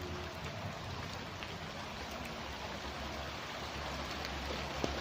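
Light rain falling steadily on a house yard, an even hiss with scattered drop ticks and one sharper tap near the end, over a faint low rumble.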